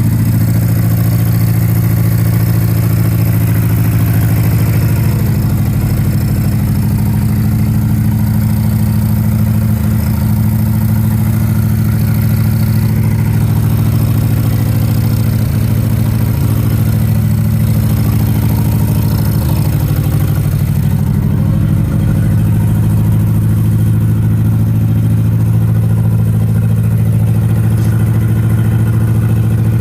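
1987 Nissan 200SX S12 Silvia engine idling steadily, its pitch holding level.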